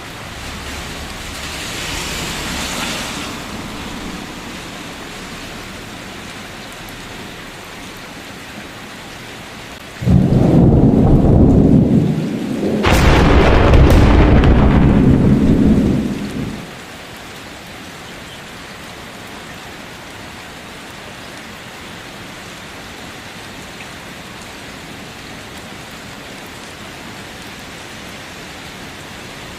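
Steady rain with a loud thunderclap about ten seconds in: a sudden crash, then a second, sharper crack about three seconds later, the thunder dying away a few seconds after that.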